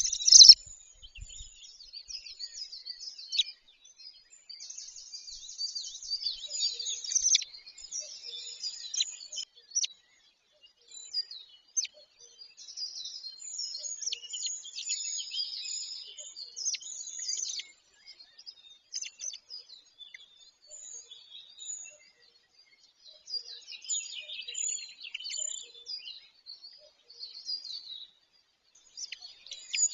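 Small birds singing and chirping in quick, varied high phrases, in bouts broken by short pauses.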